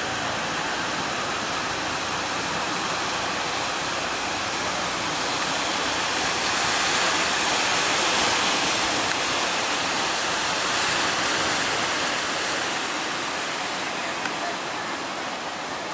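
Heavy surf at a river mouth: a steady rush of breaking waves that swells louder for a few seconds in the middle, then eases off.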